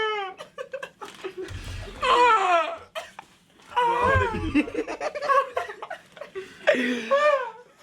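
Young men laughing in several loud bursts, about two, four and seven seconds in.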